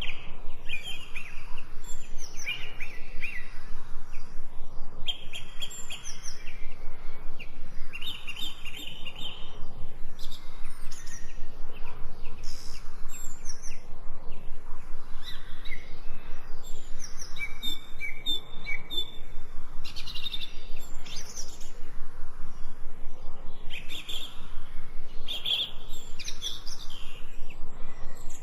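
Several songbirds chirping and singing, with quick trills and short sweeping notes overlapping throughout.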